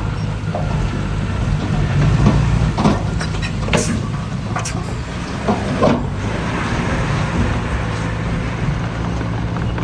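Diesel engine of heavy earthmoving machinery running steadily. Several sharp knocks and clanks come between about three and six seconds in.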